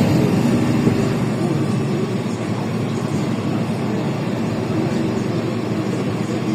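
Steady cabin noise inside a LiAZ 5292.65 city bus, its Yuchai diesel engine running with road and body noise.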